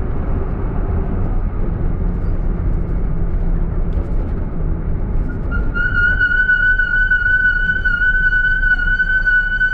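Minibus rumbling as it moves, then about five and a half seconds in its brake pads set up a loud, steady, high-pitched squeal, the whistle typical of Ternopil marshrutkas braking.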